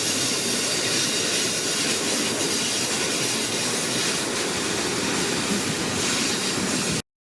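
A train passing close by: a steady, loud rush of wheel and rail noise that cuts off suddenly near the end.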